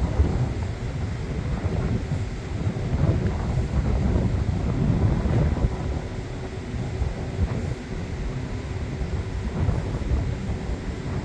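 Wind buffeting the microphone: a gusty low rumble that swells and dips, with a faint steady hum underneath.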